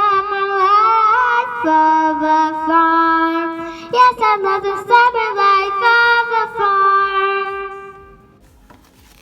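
A child singing a few long held notes without words, the pitch stepping between notes, fading out near the end.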